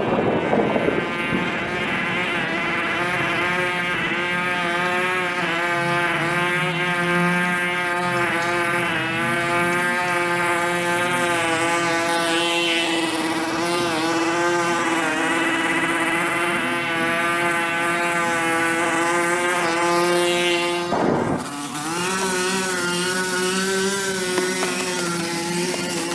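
A small engine-driven machine running steadily at a fairly high, slightly wavering pitch, with a brief break about 21 seconds in.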